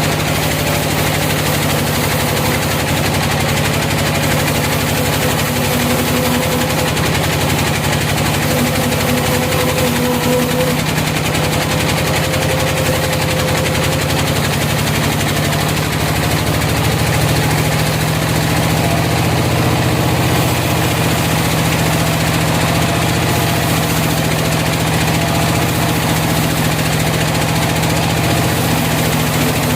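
Engine of a sawmill running steadily under a constant load. Its low note gets a little stronger about halfway through.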